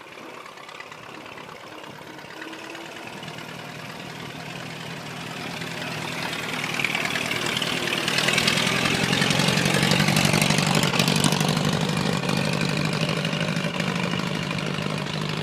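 1926 Ford Model TT one-ton truck's four-cylinder flathead engine running as the truck drives past at about 10 miles an hour. It grows steadily louder as it approaches, is loudest about ten seconds in, then eases off a little.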